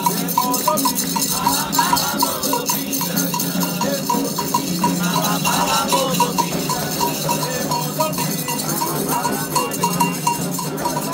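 Candomblé ritual music: a metal bell struck in a steady rhythm about four times a second, with a rattle shaking and voices singing over it.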